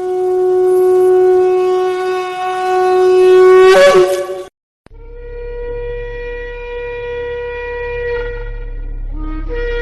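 A ram's-horn shofar sounding a long, steady blast that cracks upward in pitch at the end and stops about four and a half seconds in. After a short gap, a second, higher held blast starts and briefly drops lower twice near the end.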